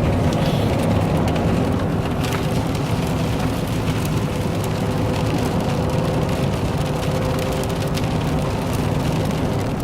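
Inside a car cabin while driving in rain: steady road and engine drone with a faint steady hum, and raindrops ticking on the glass and roof.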